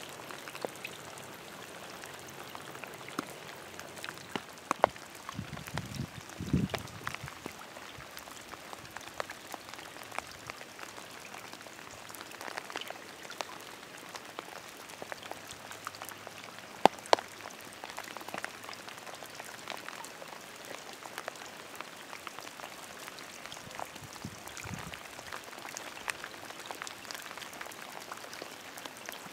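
Steady rain: an even hiss with many sharp, irregular drop ticks close to the microphone, and a brief low rumble twice.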